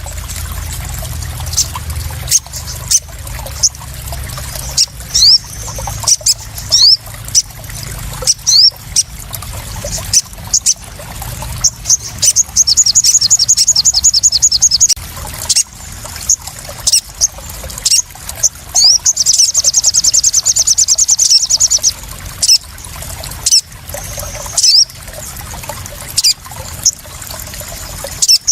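Small songbird, the sogon (crimson sunbird), calling with short rising chirps and two long rapid high trills, over water splashing and trickling with frequent sharp splashes.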